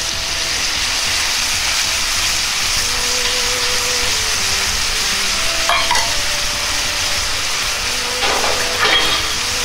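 Sliced pork belly and bitter melon (goya) sizzling in a hot frying pan as a sauce is poured over them and starts to cook: a steady, even frying hiss.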